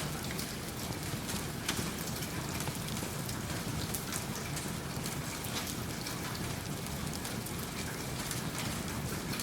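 Steady rain mixed with a crackling wood fire: an even hiss with scattered sharp ticks and pops.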